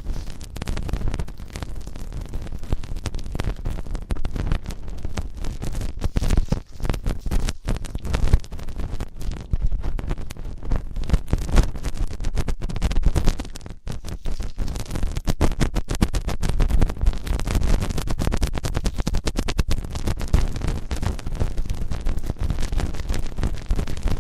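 Ear-cleaning ASMR sounds: fast, dense scratching and rubbing right on the microphone, with a heavy low rumble from the contact.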